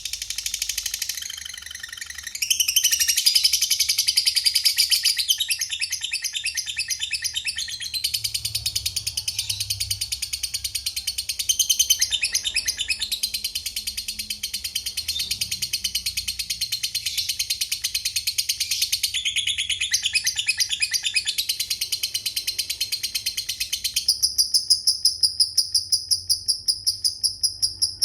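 Lovebird singing a long, rapid chattering trill (the 'ngekek panjang' prized by lovebird keepers), then from near the end switching to a fast, even run of ticking notes (the 'ngetik' call).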